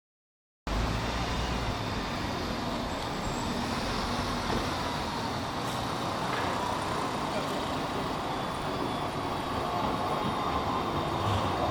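A tram running on its rails, a steady rumble that cuts in abruptly just under a second in and grows louder towards the end as it draws closer.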